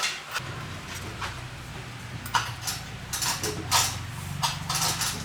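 Metal tools and parts clinking and knocking in a workshop, several sharp knocks in the second half, over a low steady hum that starts about half a second in.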